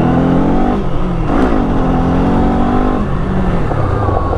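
Kawasaki Eliminator motorcycle engine accelerating hard, its pitch climbing with the revs and dropping back at each gear change, about a second in and again near the three-second mark.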